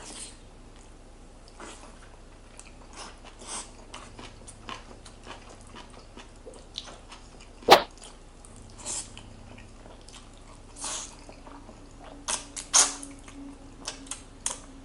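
Close-miked eating of Jjapaghetti black bean noodles with Spam and kimchi: soft chewing and slurping noises, with a single sharp click, like a utensil against the dish, about eight seconds in.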